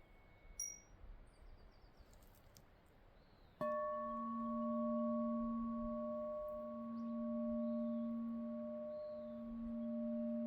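A singing bowl struck about three and a half seconds in, then ringing on in several steady overtones with a slow wobble in loudness. Before the strike, a faint high ringing tone fades out.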